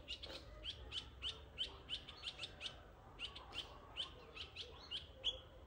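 A bird chirping over and over in quick, sharp, rising chirps, about three or four a second.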